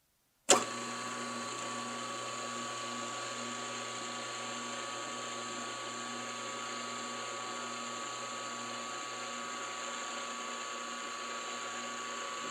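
Machine-tool motor and spindle running at a steady speed with a constant whine. It starts suddenly about half a second in.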